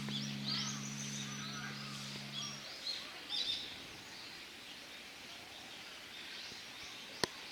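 Small birds chirping: many short, quick chirps in the first few seconds, thinning out later, over a faint outdoor background. A single sharp click near the end.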